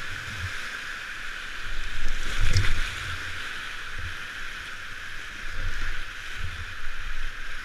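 Rushing, gurgling river water around a kayak on the move, a steady hiss with uneven low rumbles, swelling louder for a moment about two to three seconds in.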